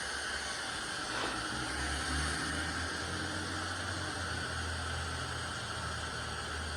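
Steady hiss with a low hum underneath, and no distinct tool strikes or clanks.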